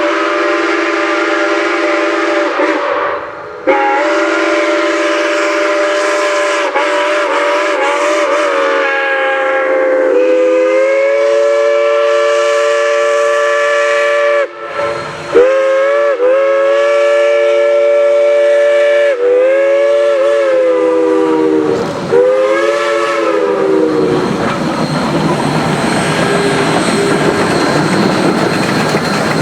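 Steam locomotive chime whistle sounding several notes at once in long blasts, with short breaks about 3 and 15 seconds in and a wavering pitch as some blasts open and close. Past 20 seconds the whistle gives way to the steady noise of the train running.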